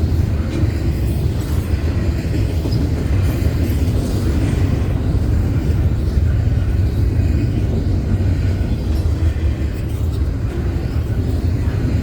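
Union Pacific double-stack freight train rolling past, a steady low rumble from the wheels and cars on the rails.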